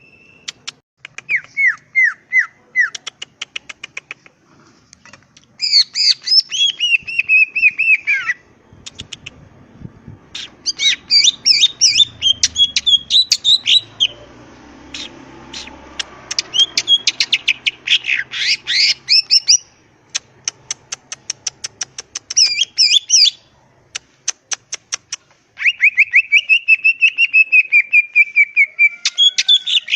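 Green leafbird (cucak ijo) in full, vigorous song. It sings phrases a few seconds long of rapid sharp chips and trills mixed with downward-sliding whistles, with short pauses between them.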